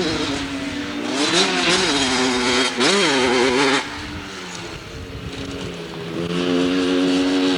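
Dirt bike engine revving in a couple of quick rises and falls, then dropping back about four seconds in and picking up again near the end.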